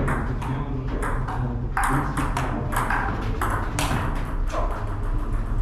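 Table tennis play: a ping-pong ball clicking off bats and table in quick, irregular succession, several hits a second.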